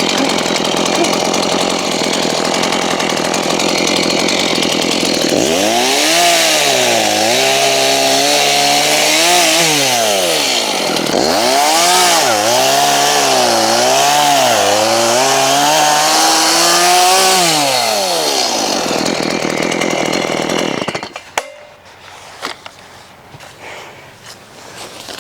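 Chainsaw running at high revs and cutting plum tree branches, its engine pitch repeatedly dipping and recovering as the chain loads in the wood. The saw cuts off abruptly near the end, leaving faint knocks and rustles.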